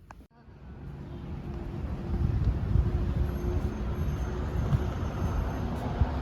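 A moving vehicle's low running rumble, building over the first two seconds and then steady, with a faint steady hum.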